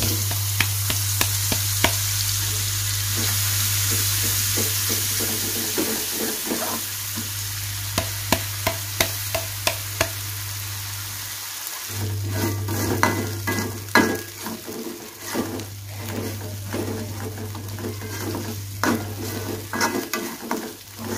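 Ground spice paste sizzling as it is sautéed in hot oil in an aluminium wok, loudest at first. About halfway in come about five quick sharp taps as the blender jar is knocked against the wok to empty it, then a spatula clacks and scrapes against the wok as the paste is stirred.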